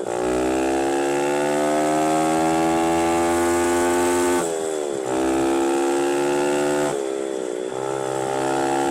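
Small 110cc mini dirt bike engine riding along, its revs climbing as it accelerates. The pitch drops about four and a half seconds in and dips again around seven seconds, each time climbing back as the throttle comes on again.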